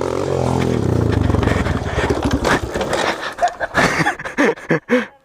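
Dirt bike engine running and revving, its pitch wavering for about the first two seconds before fading into rough, gusty noise. A few brief voice sounds come near the end.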